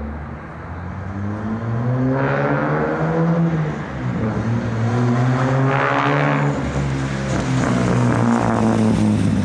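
The engine of a 1945 Rolls-Royce-framed special roadster accelerating toward the listener and getting louder. Its pitch climbs, dips once about four seconds in, then climbs again and holds.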